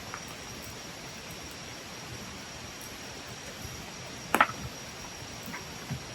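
Wood campfire burning with a steady soft hiss and a few small crackles, and one sharp pop about four seconds in.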